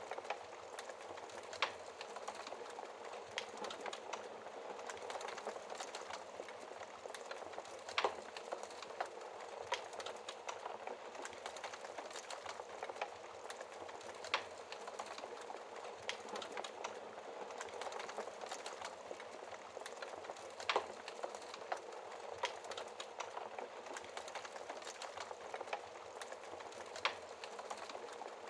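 Wood fire burning in a fireplace: a steady low rushing hiss of the flames with frequent sharp crackles and pops from the burning wood, a few louder pops standing out.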